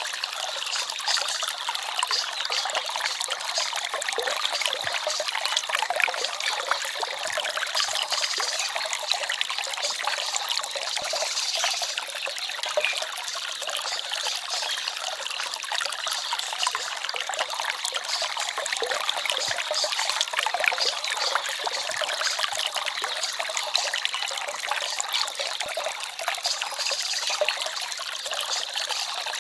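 Small forest stream babbling and trickling steadily, a continuous splashy wash with no deep rumble.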